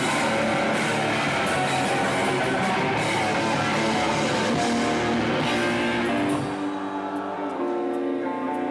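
Live metalcore band playing loud, with distorted guitars, bass and drums with cymbals. About two-thirds of the way through, the drums and low end drop out, leaving guitar notes ringing on their own.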